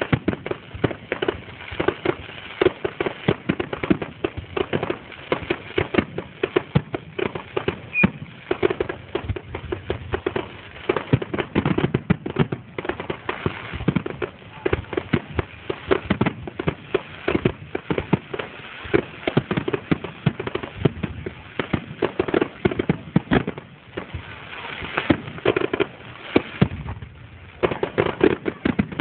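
Fireworks display: aerial shells bursting in a rapid, unbroken volley, several bangs a second with crackling between them.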